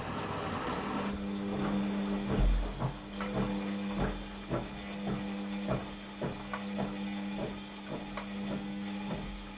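Washing machine at the start of its washing program: a short hiss, then a steady motor hum with regular ticking about twice a second.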